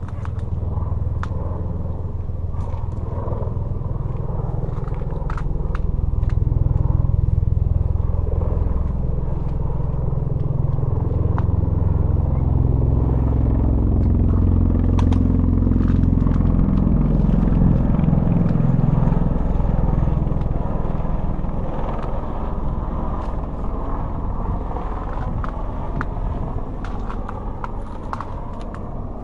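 CV-22 Osprey tiltrotor in flight, a low rumbling drone that builds to its loudest about halfway through and then fades as it moves away.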